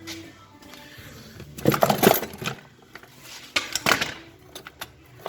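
Two bursts of metal clinking and clattering, the first about two seconds in and the second about four seconds in.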